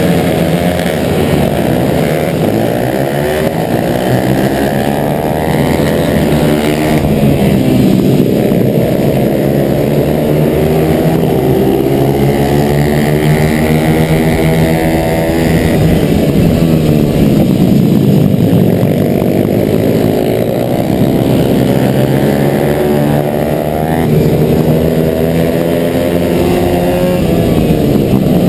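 Single-cylinder four-stroke 140cc pit bike engine, heard from on board under race load: it revs up, drops back, and climbs again over and over, the pitch rising through the gears and falling on the throttle lifts.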